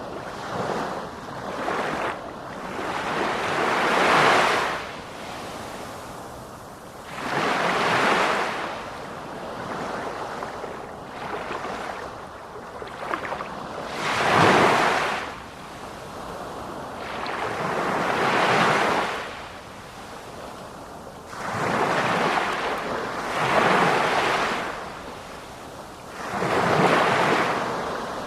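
Sea waves breaking and washing in, swelling and falling away in irregular surges every few seconds.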